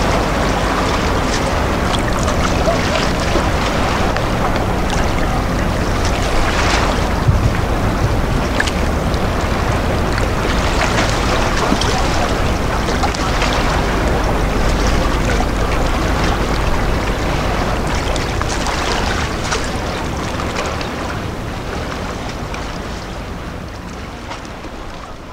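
Wind buffeting the microphone over the wash of sea waves and a steady low hum, fading out near the end.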